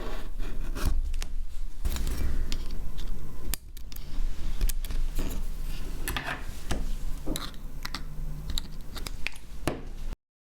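Small repair tools clicking and scraping on a Samsung Galaxy S10e smartphone as it is worked on by hand, in irregular handling clicks and rubs. The sound cuts off suddenly near the end.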